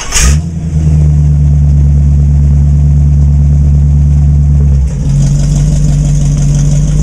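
Street rod's engine running as the car drives, a loud steady low drone. About five seconds in the pitch changes and a hiss of road and wind noise comes up.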